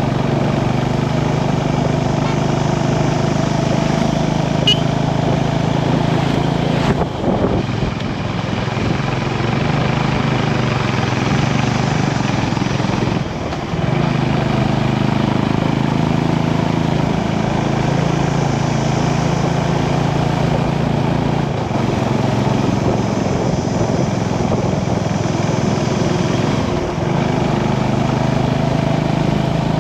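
Motorcycle engine running steadily under way, its note breaking off briefly about three times.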